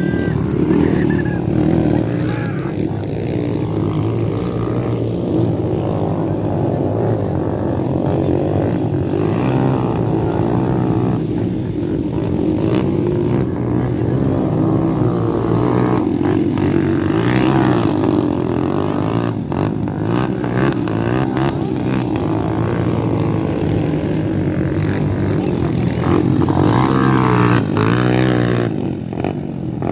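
Motocross dirt bike engines running and revving, the pitch rising and falling again and again.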